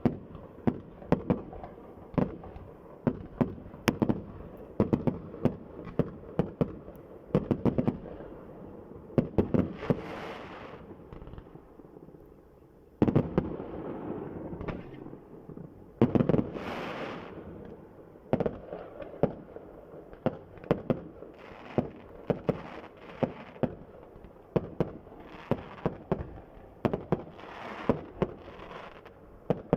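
Fireworks going off in rapid succession: many sharp bangs and crackles, with a sudden louder burst about 13 seconds in and another about 16 seconds in.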